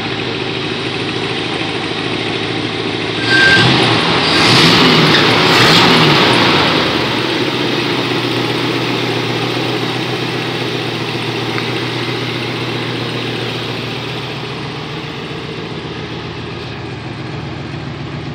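1965 Chevrolet Impala's 283 small-block V8 idling, revved up and back down three times in quick succession about three seconds in, then settling back to a steady idle.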